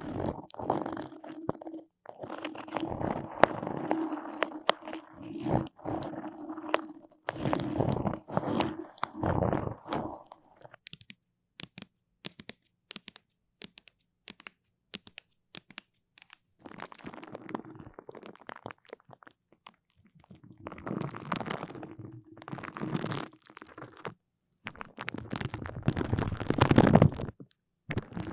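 Close-miked sticky, crackling ASMR sounds: tacky surfaces pulling apart with dense small clicks and crackles, in bursts of a few seconds. Only scattered clicks come in the middle, and the loudest burst is near the end.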